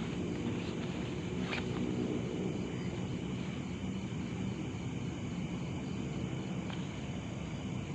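Night outdoor ambience: a steady low rumble with insects chirring high above it, and a couple of faint clicks.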